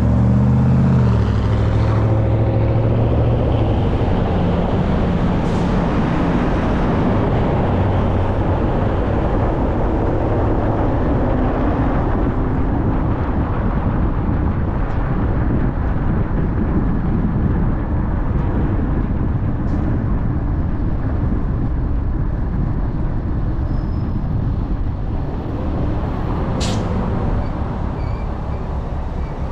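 Car on the move, with steady road and engine noise and the engine's pitch shifting in the first couple of seconds. One short sharp sound near the end.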